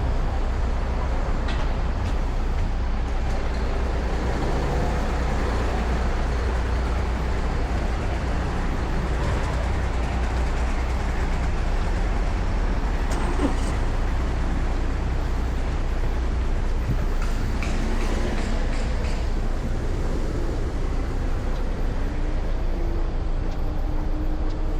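Steady city street traffic: a continuous low rumble of passing vehicles, with a faint engine tone near the end.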